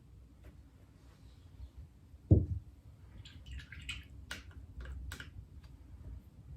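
A single dull thump about two seconds in, then a run of light clicks and taps, as of small objects being handled and set down on a work surface.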